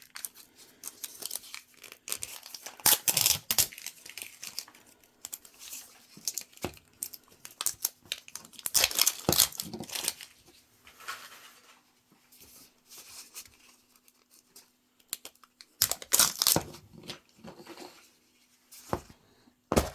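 Plastic packaging being torn open and crinkled by hand in irregular bursts, the loudest about three seconds in, around nine seconds and around sixteen seconds.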